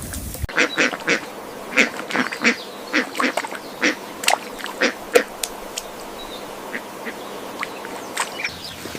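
Ducks quacking: many short quacks in quick succession, thinning out to only a few in the second half.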